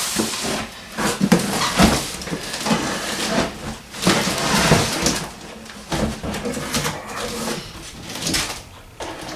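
Handling noise from a large bird feeder and its packaging: irregular rustling and scraping with short knocks as it is unpacked and moved about.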